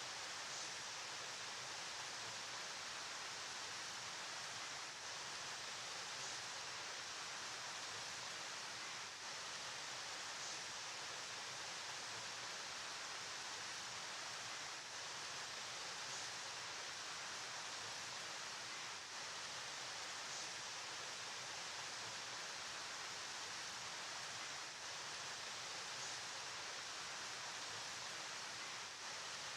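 A river flowing: a steady, even rush of water, more hiss than rumble.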